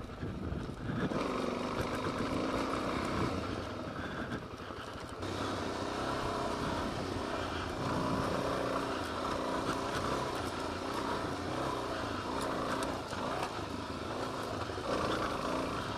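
Suzuki DRZ 400S single-cylinder four-stroke dirt bike engine running under way, its pitch rising and falling with the throttle. It eases off briefly about four seconds in, then pulls steadily again.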